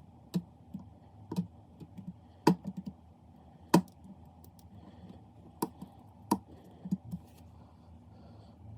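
A dozen or so irregular, sharp clicks and taps, two of them much louder than the rest, over a faint steady low hum.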